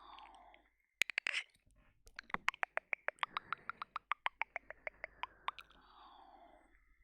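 Wet ASMR ear-licking mouth sounds, tongue and lips working close on a 3Dio binaural microphone. A cluster of clicks comes about a second in, then a fast run of wet clicks, about eight a second, for some three seconds. A soft falling tone sits at the start and near the end.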